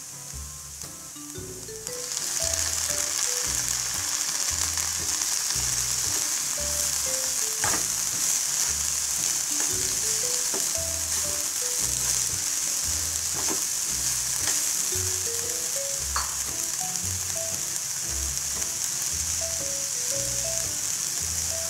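Chopped onions and tomatoes sizzling as they fry in oil in a pan, stirred now and then. The steady sizzle sets in about two seconds in. Background music with a steady bass beat plays throughout.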